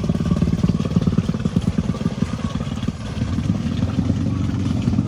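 Off-road four-wheeler (ATV) engine running with a fast pulsing beat; about three seconds in it dips briefly, then settles into a smoother, steadier note.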